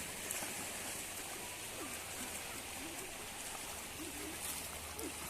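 Steady rushing noise of water, with faint wavering sounds like distant voices in the background.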